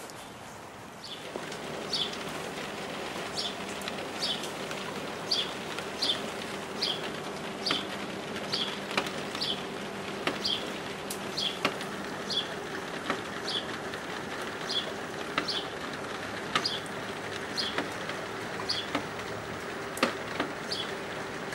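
Rain falling steadily, with occasional sharp drips, and a small bird chirping over and over about once every two-thirds of a second above a steady low hum. All of it gets louder about a second in.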